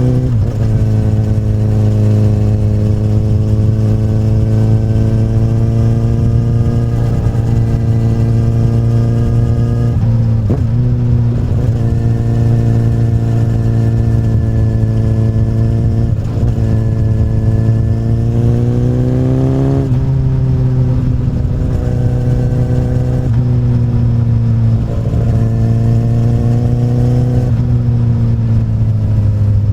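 2008 Honda CBR1000RR's inline-four engine running through an Akrapovic carbon slip-on exhaust at a steady cruise. The revs dip briefly several times, and about two-thirds through they climb steadily, then drop suddenly.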